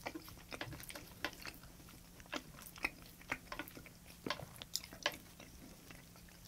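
Quiet, irregular mouth clicks and smacks of chewing raw salmon sashimi.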